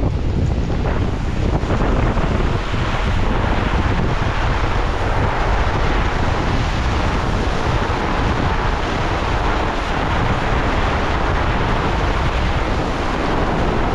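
Heavy rain falling in strong wind, a steady dense hiss, with the wind buffeting the microphone as a low rumble beneath it.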